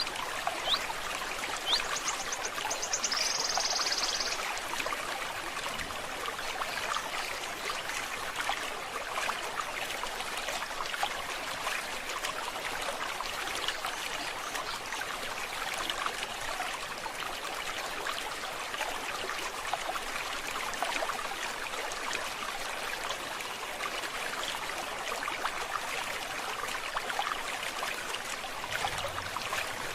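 Forest stream babbling steadily. A bird calls over it near the start: a few short high notes, then a high buzzy trill about three to four seconds in.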